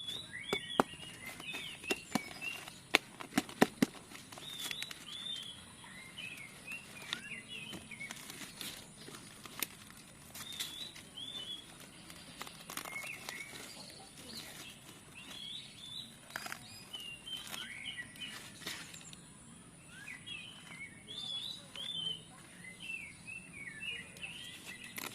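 Small birds chirping in short repeated calls throughout, with sharp clicks and knocks, several loud ones in the first four seconds.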